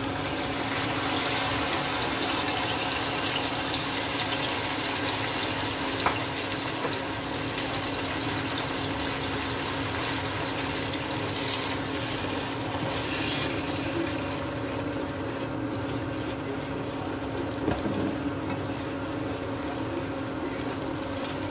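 Ground chili sambal paste sizzling steadily as it fries in hot oil in a wok, with a couple of sharp clicks of a spatula against the pan.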